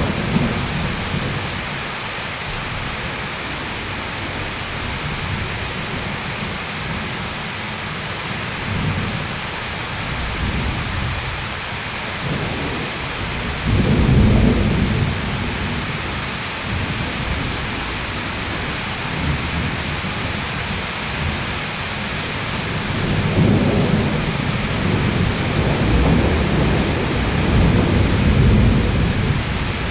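Steady heavy rain with rolling thunder: a rumble swells about halfway through, and longer rolls build near the end.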